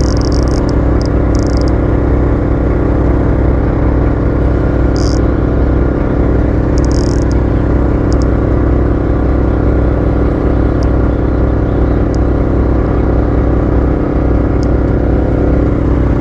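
Motorboat engine running steadily with the boat under way, a constant loud drone with a few short hissing splashes of spray or water.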